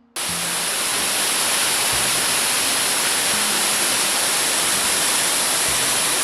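Rushing river water: a loud, steady rush that cuts in suddenly just after the start.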